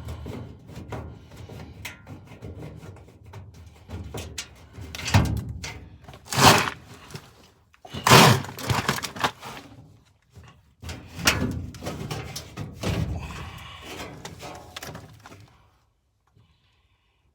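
Repeated thunks, knocks and rattles of parts being handled during work on an old gas furnace, with the three loudest knocks about five, six and a half and eight seconds in. The clatter stops about two seconds before the end.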